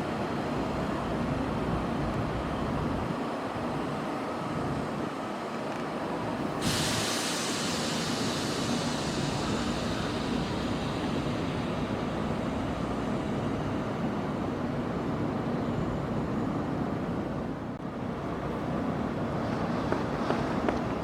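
Kintetsu Minami-Osaka Line electric train running through the station with a steady rumble. A sudden hiss starts about six and a half seconds in and fades away over several seconds.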